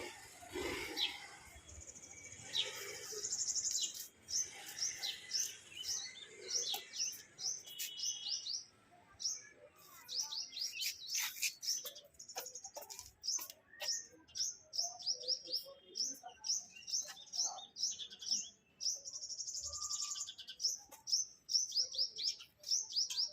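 Small birds chirping: long runs of short, high chirps repeated in quick succession, sometimes several overlapping.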